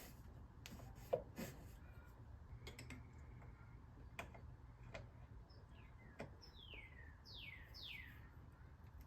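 Faint scattered clicks and taps of a tool prying at a stubborn ignition coil. Near the end a bird calls several times in quick falling notes.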